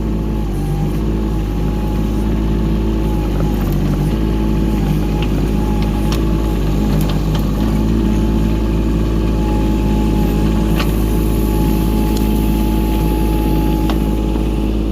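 Excavator's diesel engine running steadily at a constant speed, with a few light clicks and knocks over it.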